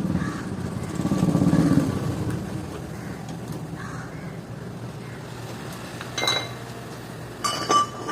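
A motor running with a low hum, louder in the first two seconds and then steady. Metal tools clink with a short ringing about six seconds in and twice more near the end.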